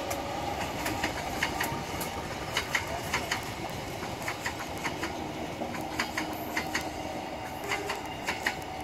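Diesel-hauled passenger train passing close by: a steady rumble as the coaches roll past, with many sharp, irregular clicks and clacks from the wheels.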